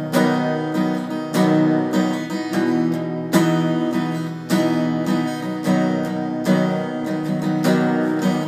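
Acoustic guitar strummed in steady chords, an instrumental passage of a country ballad with no singing.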